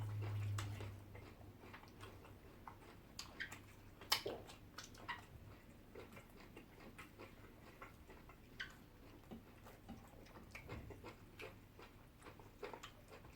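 Quiet eating sounds: chewing with scattered soft mouth clicks and smacks, a few sharper clicks about four seconds in and again near nine seconds.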